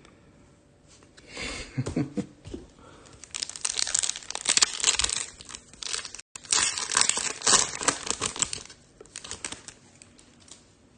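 A Topps Chrome trading card pack's foil wrapper being torn open and crinkled, in a run of rustling, crackling bursts lasting several seconds.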